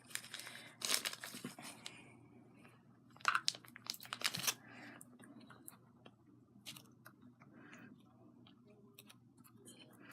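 Crinkly, tearing rustles of craft material being pulled apart and handled, in a few short bursts over the first five seconds, then faint small clicks and rustling.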